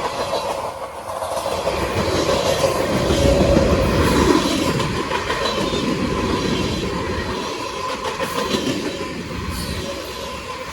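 Cars of a long CSX freight train rolling past, wheels clacking over the rail joints, with a steady high-pitched wheel squeal over the rumble.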